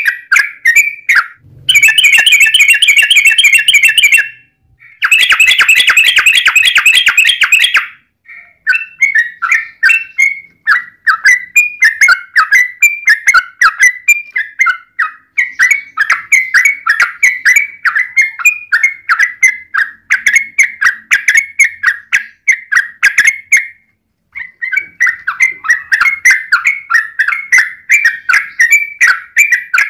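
Yellow-vented bulbuls singing loud, bubbly chattering phrases. Early on come two long, rapid trills of a few seconds each, then a steady run of short repeated phrases with a brief pause about 24 seconds in.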